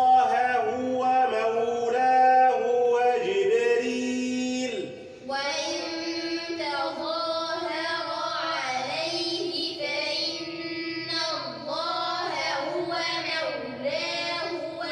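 Quran recitation chanted melodically, with long held vowels. About five seconds in it breaks off and a group of children's voices repeat the phrase in unison.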